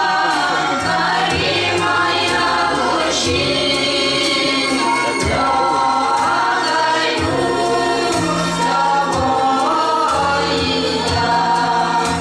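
A folk choir singing a slow song in several voice parts, with steady low bass notes changing beneath the voices.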